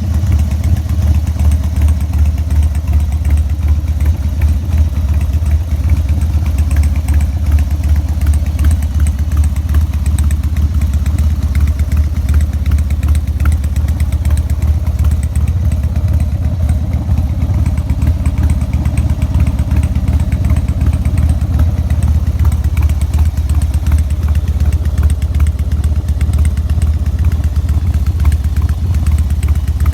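Harley-Davidson Sportster XL1200S's air-cooled 1200 cc V-twin idling steadily through its Burnout muffler, a loud, deep exhaust pulse with no revving.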